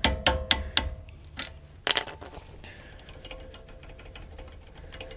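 Metal-on-metal clinks with a ringing tone, typical of a hammer tapping a punch to drive out a brake caliper's pad retaining pin. There are several quick taps in the first second, a harder strike about two seconds in, then lighter ticking.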